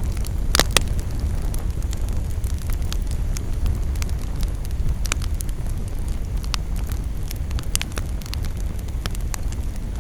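Campfire burning: scattered sharp crackles and pops of wood over a steady low rumble, with the loudest pop about half a second in.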